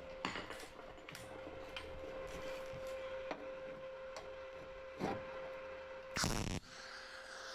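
Quiet rubbing and scraping of sheet metal being handled and fitted, over a steady hum, with a few knocks and one short harsh burst about six seconds in.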